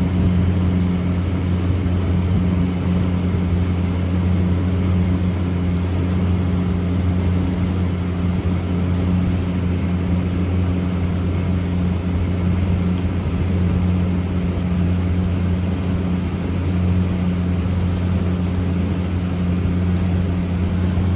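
A steady low mechanical hum, a deep drone with a second tone above it, unchanging throughout.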